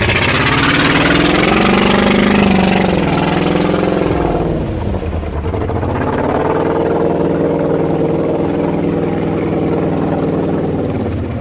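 Truck engine revving: its pitch climbs over the first couple of seconds, drops away about five seconds in, then climbs again and holds steady.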